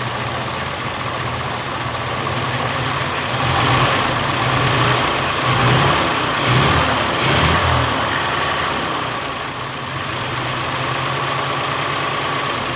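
1926 Oakland's six-cylinder flathead engine idling, running on its own fuel system on its original plugs and points. It gets louder for a few seconds in the middle, then settles back.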